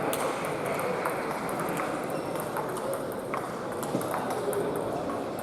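Table tennis balls clicking off bats and tables in irregular, scattered knocks, over the murmur of a large hall.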